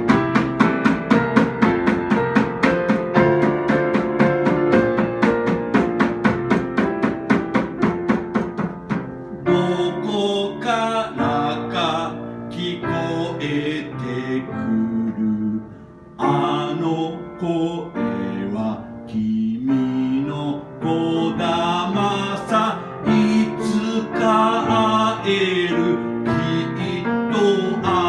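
Live band music without words: a fast, even run of repeated chords with drums for about the first nine seconds, then a wavering melody line with pitch glides over keyboard chords and drums.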